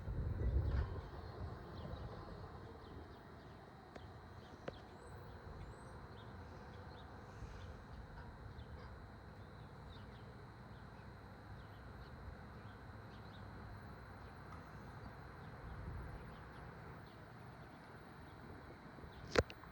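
Wind gusting on the microphone, strongest in the first two seconds, then a faint steady outdoor background with scattered high chirps. A single sharp click comes near the end.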